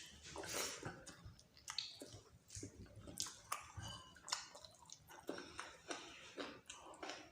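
Close-miked chewing of dal bhat and meat: irregular wet mouth clicks and lip smacks.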